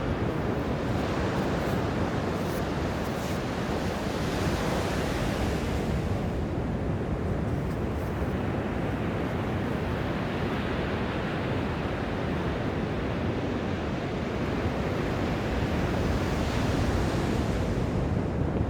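Ocean surf breaking and washing up a beach: a continuous rush that swells twice as waves come in, with some wind rumble on the microphone.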